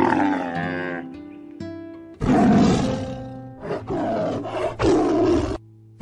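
Camel calling over plucked-string background music: a short call at the start, then three loud, rough bellows one after another from about two seconds in.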